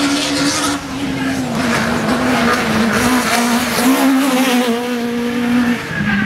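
Race car engine held at high, steady revs, its pitch wavering slightly and dropping a step near the end.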